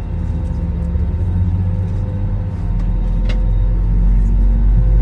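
Airbus A321 jet engines heard from inside the cabin: a low rumble with steady tones that grows louder in steps, about two and a half seconds in and again near the end. A single light click about three seconds in.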